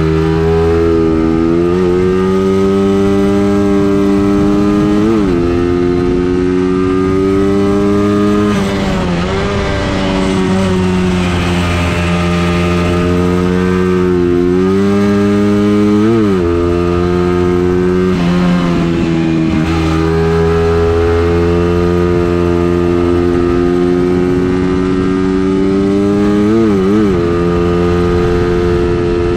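A vehicle engine running hard on a circuit lap. Its pitch climbs slowly and drops briefly about six times as the throttle is lifted or a gear changes. This is an engine test run in which the owner found the engine very slow, down on power.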